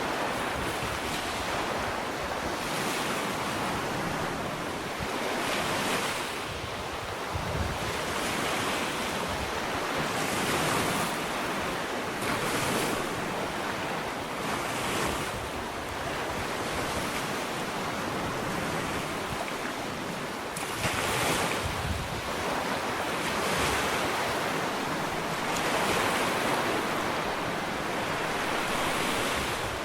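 Small ocean waves breaking and washing up a sandy beach, a steady hiss of surf that swells every couple of seconds, with some wind on the microphone.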